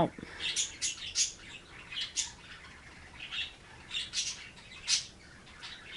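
Small birds chirping in the background: scattered, short, high chirps at irregular intervals.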